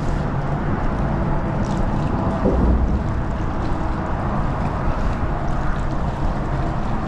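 Steady wind buffeting the microphone on open water, with water washing around a kayak.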